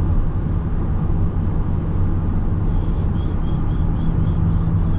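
Steady road and engine rumble of a car driving on the highway, heard from inside the cabin. A faint, quick series of high chirps, about four a second, comes in a little past halfway and stops near the end.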